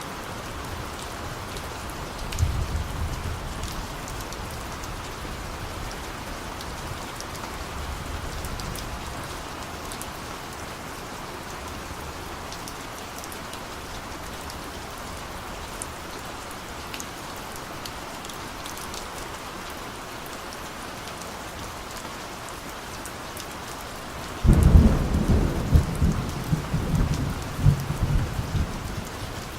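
Steady rain with thunder: a short rumble a couple of seconds in, a softer one around eight seconds, and a long, much louder rumble of thunder starting near the end.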